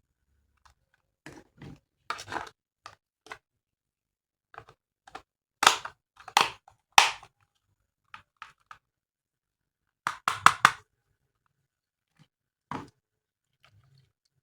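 Hard plastic toy parts being handled and snapped together: irregular sharp clicks and clacks, with the loudest in a quick cluster of three about halfway through and another rapid cluster about two-thirds in.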